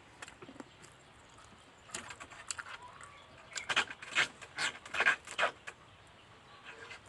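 Mouth sounds of eating: wet chewing and lip smacks, a few scattered smacks at first, then a louder run of them from about three and a half seconds in.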